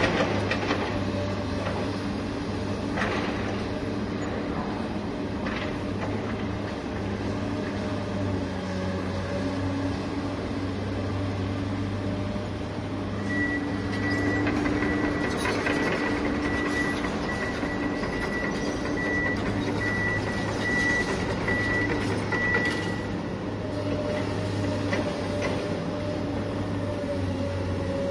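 A heavy vehicle's engine running steadily. A reversing alarm beeps repeatedly for about ten seconds in the middle.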